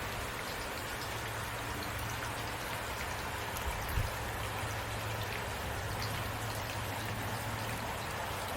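Heavy rain falling steadily, with individual drops ticking through the hiss. A single dull thump about halfway through.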